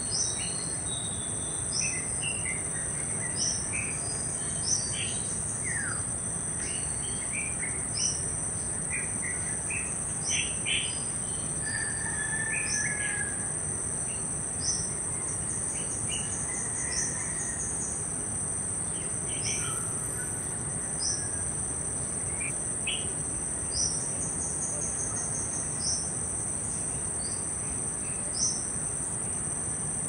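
Short, sharp, high bird chirps, each falling in pitch, repeated every second or two, with a few lower chirps between them, over a steady high-pitched insect drone.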